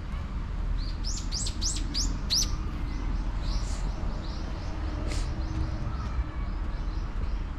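Small birds chirping: a quick run of about five sharp, high chirps a second in, then softer, scattered chirps, over a steady low rumble.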